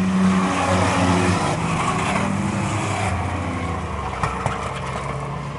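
Racing trucks' engines running at speed on the track, loudest in the first second or so and slowly fading as they move off.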